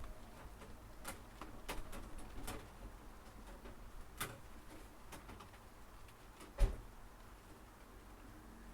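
Scattered light clicks and knocks as fishing nets and gear are handled, with one heavier thump about six and a half seconds in.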